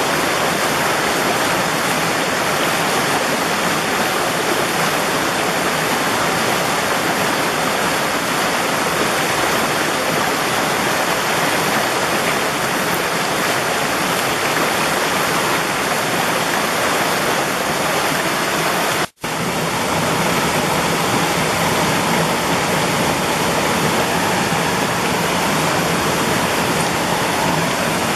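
Mountain valley stream rushing steadily over rocks. The sound cuts out for an instant about two-thirds of the way through, then resumes.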